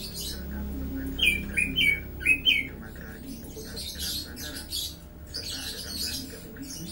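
A bird chirping four times in quick succession, each short call sliding down in pitch; later come bursts of scratchy rustling.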